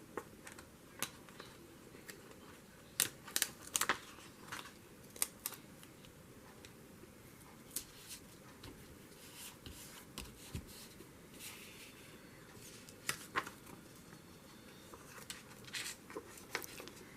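Quiet paper handling while fern stickers are applied to small paper cards: scattered light clicks, taps and rustles, with a few clustered together.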